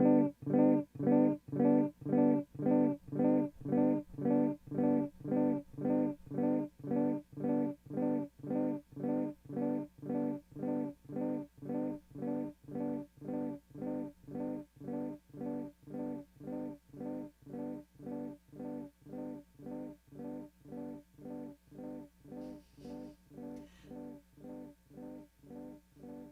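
A single electric guitar hit repeated by an Old Blood Noise Endeavors Black Fountain V3 oil-can delay pedal with its repeats cranked near maximum. The echoes come about two a second and fade slowly without building into self-oscillation.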